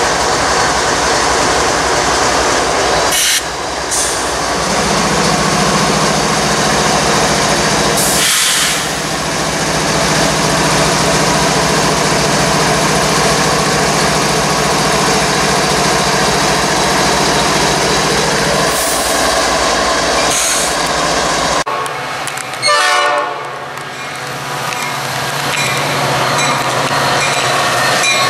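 Union Pacific diesel freight train with double-stack container cars rolling past close by, wheels running steadily on the rails, with a steady low tone through most of the middle. About three quarters of the way through the sound cuts to a Metra diesel commuter train approaching.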